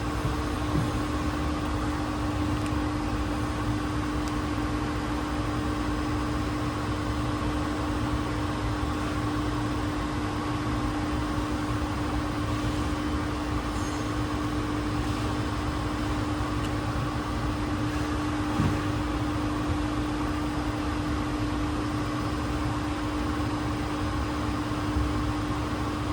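Hot-water heat pump plant running steadily: a constant machine hum with one strong steady tone over even mechanical noise, unchanging throughout.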